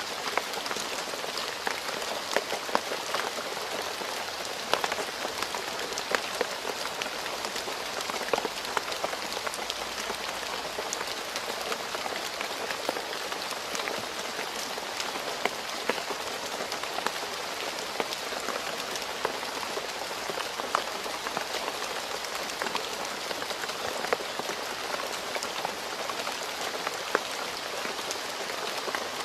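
Steady rain falling on a road surface, a dense hiss with many sharp individual drop impacts scattered through it.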